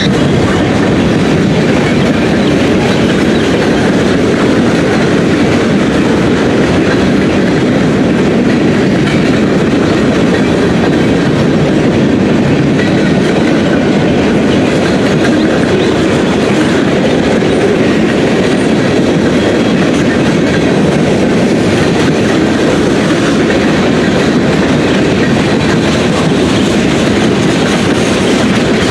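Freight train rolling past: a loud, steady rumble of steel wheels on the rails that keeps up without a break.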